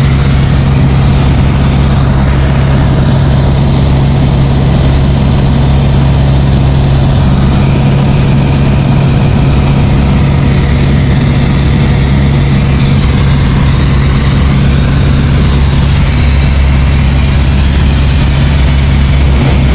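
Light aircraft's piston engine and propeller droning steadily and loudly, with an unchanging low hum.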